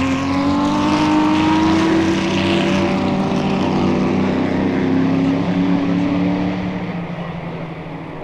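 Racing cars, a Ferrari, a Porsche and a Sunbeam Tiger, going through a corner at speed, several engines sounding at once. The engine note climbs slightly at first, is loudest in the first few seconds, and fades toward the end.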